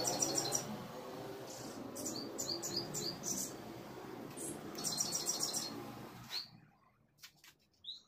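Small birds chirping in the background, in several bursts of quick high notes and trills. A steady low background noise runs beneath them and stops about six and a half seconds in.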